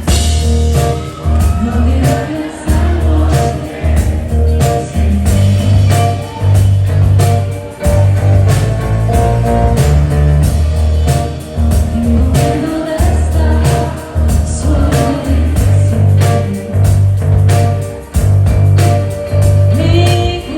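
Live rock band playing a song with singing, heavy bass and a steady drum beat, loud; the band kicks in suddenly at the start.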